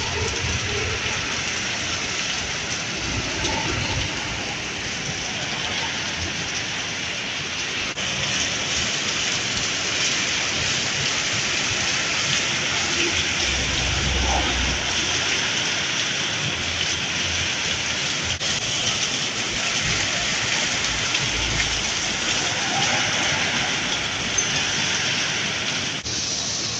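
Steady heavy rain falling on the road and surfaces, with a low rumble of passing traffic about halfway through.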